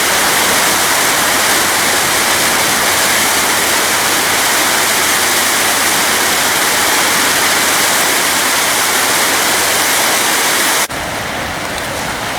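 Loud, steady rush of flood-swollen river water. About eleven seconds in, it cuts off abruptly to a quieter rush.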